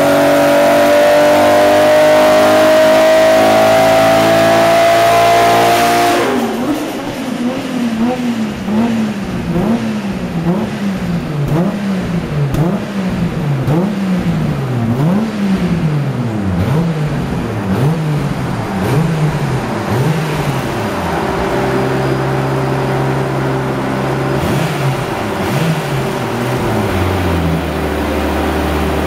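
Turbocharged 2.7-litre straight-six of a Nissan R33 GT-R with a single Trust T78-29D turbo on a chassis dyno. It runs a full-throttle pull, rising steadily in pitch for about six seconds, then cuts off sharply as the throttle is closed. The revs then rise and fall about once a second, and the engine settles to a steady lower speed near the end.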